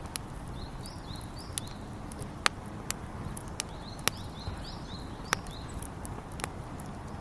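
Wood campfire crackling, with sharp pops at irregular intervals. Small birds chirp in short bursts in the background.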